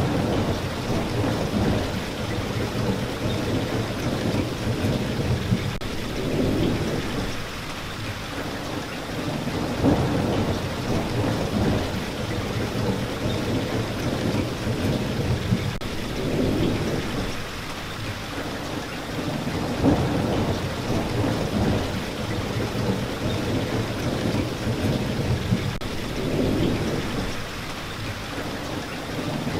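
Steady heavy rain falling, with low rolling rumbles of thunder that swell and fade every few seconds.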